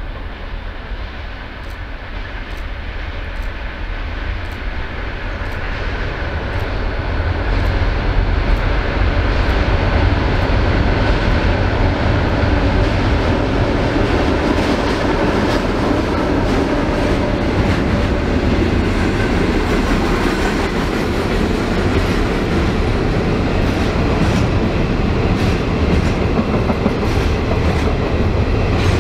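Freight train passing, growing louder over the first eight seconds and then holding a steady rumble, with the clickety-clack of wagon wheels over rail joints.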